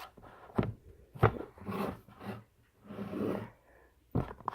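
Hands handling slime and its plastic container: a few sharp clicks and taps with soft squishy rustles between them, and a cluster of clicks near the end.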